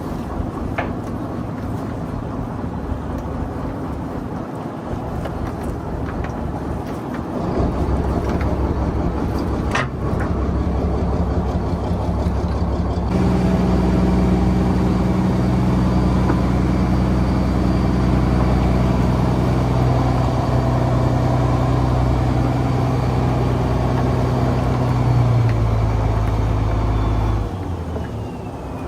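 Fishing boat's engine running steadily. It gets louder about a quarter of the way in and again near the halfway point, then eases back shortly before the end.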